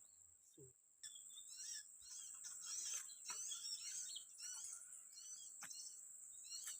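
Small birds chirping in quick, repeated short notes, starting about a second in, over a steady high-pitched whine.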